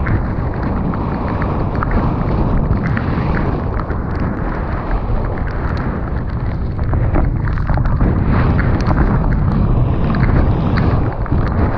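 Wind rushing over the microphone of a mountain bike descending a wet dirt trail, with tyre noise and frequent small clicks and rattles from the bike.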